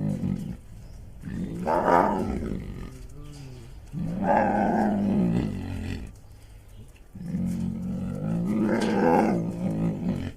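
Bear growling: three long, low, rough growls with short pauses between them, after the tail end of an earlier one.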